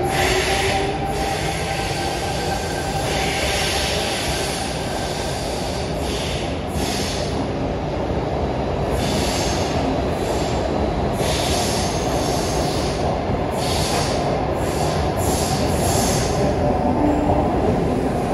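Sydney Trains double-deck Tangara electric train pulling out of an underground platform and running past. A steady rumble of wheels on rail carries high, hissing wheel squeals that come and go every second or two, with a short rising motor whine right at the start.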